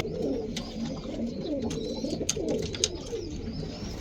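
Many roller pigeons cooing at once in a loft, overlapping low calls throughout, with scattered sharp clicks and a few thin high chirps over them.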